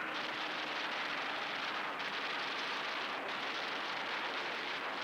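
Steady rushing noise with a faint low hum underneath, even throughout, with no distinct events.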